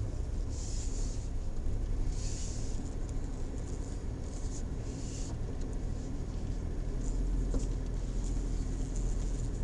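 Suzuki Jimny JB64 (658 cc three-cylinder turbo) driving on a forest road: a steady low rumble of engine and tyres, with four short hissing swishes in the first half.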